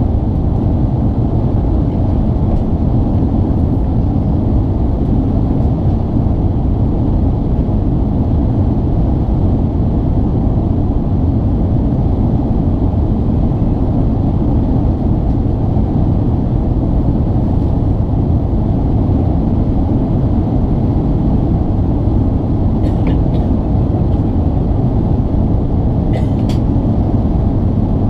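Steady rumble and airflow noise of jet engines heard from inside an Airbus A380's passenger cabin, with a couple of faint clicks near the end.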